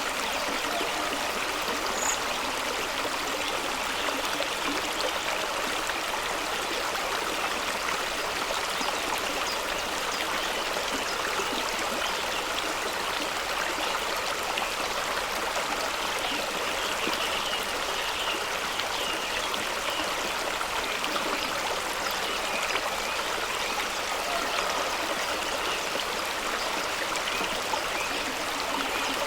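Fast-running stream with a small waterfall, water rushing over rocks in a steady, even rush.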